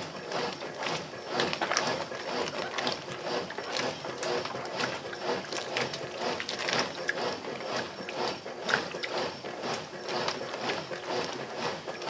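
Brastemp BWL07A top-loading washing machine running a wash cycle on a low water level: a steady mechanical clatter of the motor and agitator, with many small clicks and water churning.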